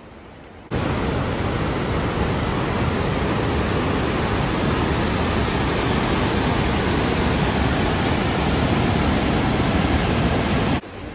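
Steady rushing of whitewater: continuous, even noise that cuts in sharply about a second in and cuts off sharply near the end.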